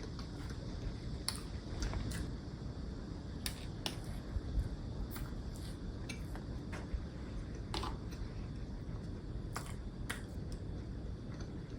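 Close-up mouth sounds of someone eating a doughnut: about a dozen short, sharp clicks scattered irregularly over a steady low background rumble.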